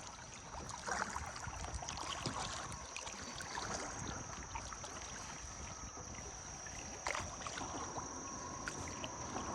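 Kayak paddling on a flowing river: light paddle splashes and drips over the steady wash of moving water. A steady high-pitched tone runs underneath.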